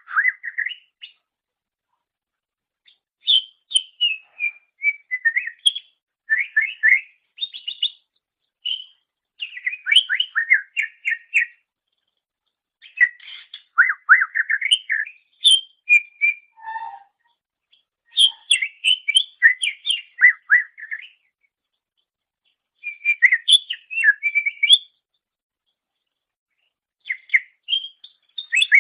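Cucak ijo (greater green leafbird) singing in phrases of rapid whistled and chattering notes, each one to three seconds long, with short silent pauses between them.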